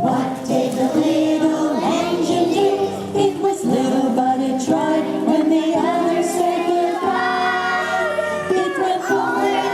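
A group of children singing a song to instrumental accompaniment.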